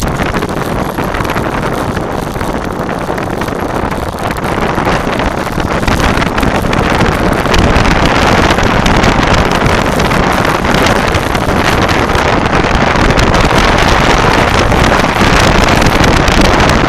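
Loud wind buffeting the microphone, with rattling knocks mixed in, growing louder about six seconds in as the trail descent picks up speed.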